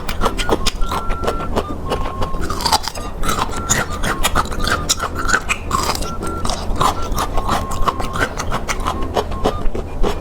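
Close-up chewing of crunchy bamboo shoots, a dense run of crisp crunches and wet clicks.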